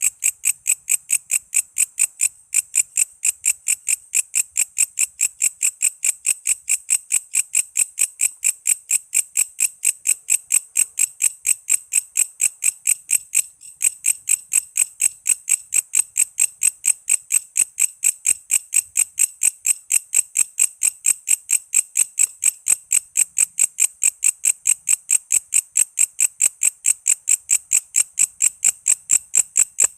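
Walang kece, an Indonesian katydid, calling in an even, high-pitched train of sharp chirps at about four a second, with two very brief breaks.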